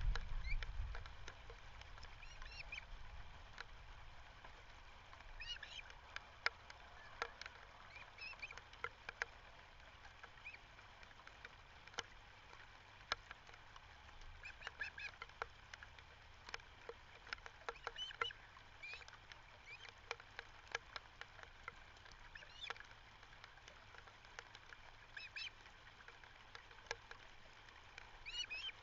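Ospreys calling at the nest: short, high chirps in clusters every few seconds, with scattered sharp clicks throughout and a brief low wind rumble at the start.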